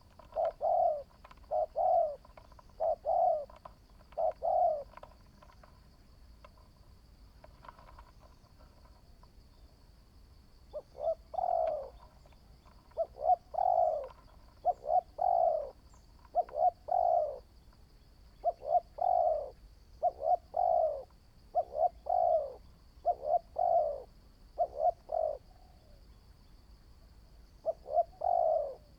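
Spotted dove cooing in repeated phrases, a caged decoy bird in training: one run of phrases, a pause of several seconds, then a long run and another near the end. A faint steady high tone runs underneath.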